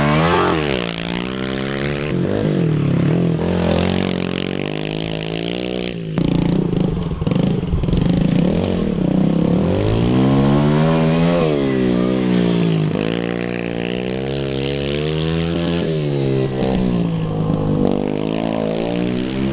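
Pit bike engine being ridden hard, its pitch climbing and dropping again and again as the throttle is opened and closed through corners and shifts. A sudden break comes about six seconds in.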